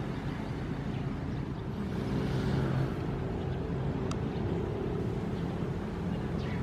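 Ocean waves: a steady low rumble of surf, with one wave swelling up and washing through about two to three seconds in.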